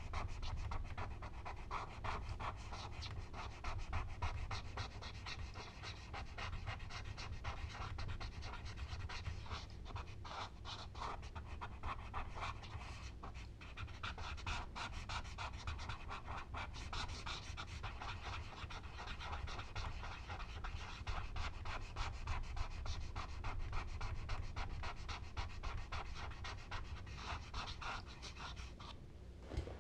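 Rapid back-and-forth strokes of charcoal rubbing on paper: a continuous fast scratchy rasp that pauses briefly about halfway through and stops just before the end.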